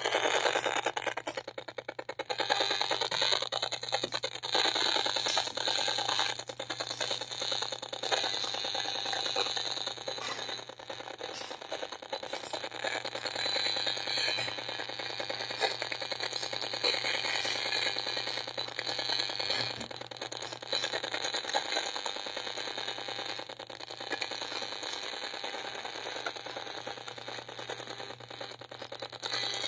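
Safe & Sound Pro 2 RF meter's speaker sounding out pulsed radio-frequency signals as a dense, continuous rattling crackle of rapid clicks, over a steady low hum.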